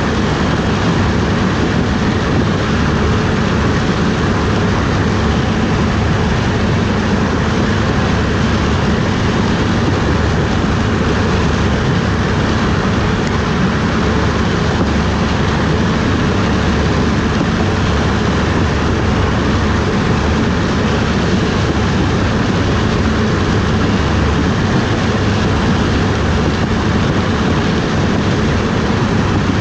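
Corn harvesting machinery running steadily: a loud, even engine and machine drone that holds without change.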